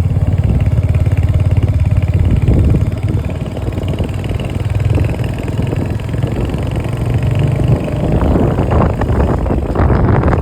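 Motorcycle engine running close to the microphone during a ride. The engine note eases a little about eight seconds in, and rougher irregular noise grows.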